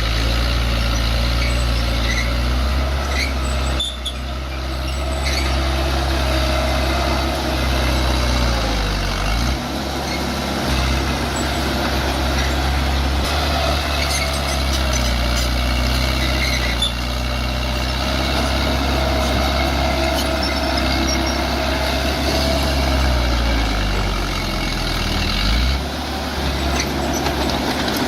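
Bulldozer's diesel engine running hard, its note sagging briefly twice and recovering: about a third of the way in and near the end.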